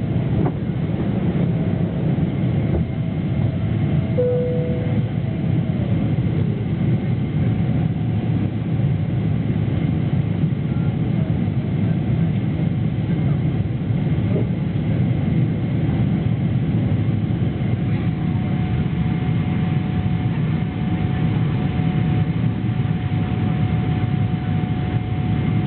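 Steady engine and airflow noise inside the cabin of a SWISS Boeing 777-300ER in flight, its GE90-115B turbofans running at a constant setting: a deep, even rumble with a faint whine above it.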